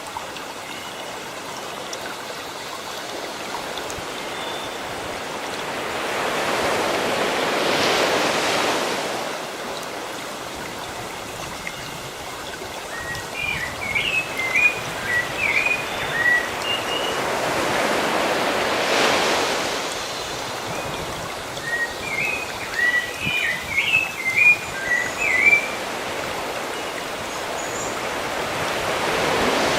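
Sea waves breaking and washing ashore in slow swells about every eleven seconds. A bird chirps in two short runs of quick notes between the swells.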